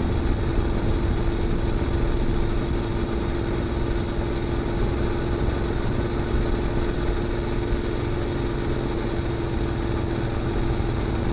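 Honda NC750X's parallel-twin engine running through an aftermarket GPR slip-on muffler at a steady cruise, holding one even pitch with no revving.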